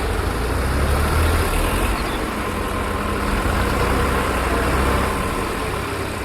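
Tractor engine running steadily, a deep low drone.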